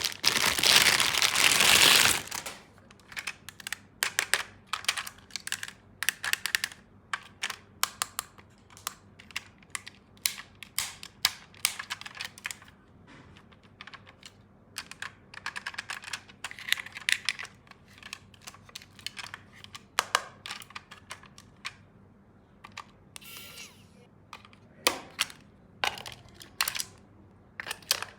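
Plastic packaging crinkling loudly for about two seconds, then light, irregular clicks and taps of small plastic toy tool pieces being handled and set down.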